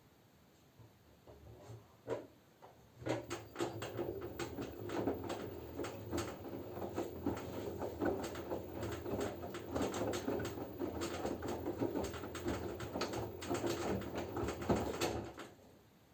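Drum of an LG F10B9LD front-loading washing machine turning during the wash cycle: wet laundry and water sloshing and tumbling over a low motor hum, starting softly about a second in, running steadily from about three seconds in and stopping abruptly shortly before the end.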